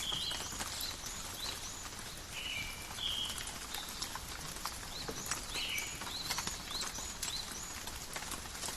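Light, steady rain with scattered drips ticking, and small birds calling throughout in short rising chirps and a few flatter whistled notes.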